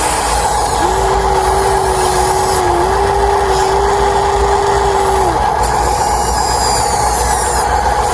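Radio-controlled toy excavator and dump truck running: a steady electric-motor and gear whine over a constant engine-like drone, with an extra steady tone from about one second in to about five seconds.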